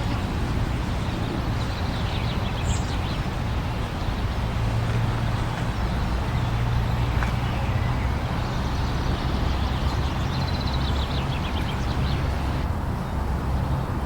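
Blizzard wind blowing steadily, a deep rumble under a broad hiss of wind-driven snow.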